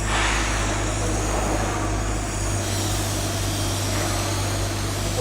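Steady machinery drone with a constant low hum, and a short hiss right at the start.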